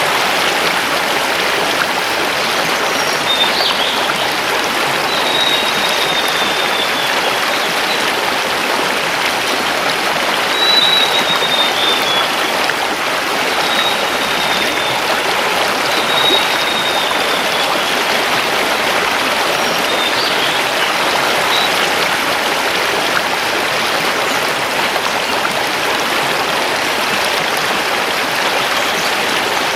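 River water rushing steadily over stones. Over it, a forest bird gives several thin, high whistles that fall in pitch, during the first two-thirds.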